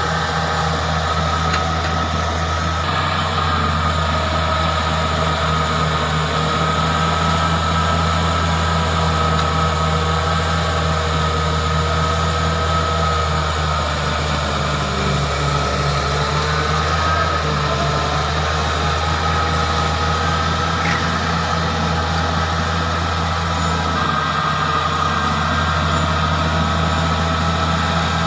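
Caterpillar bulldozer's diesel engine running steadily under work, its note shifting slightly a few times.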